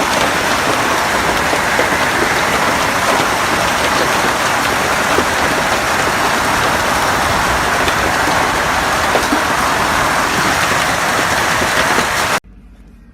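Heavy storm downpour pounding steadily on surfaces, a dense, even hiss that cuts off abruptly near the end.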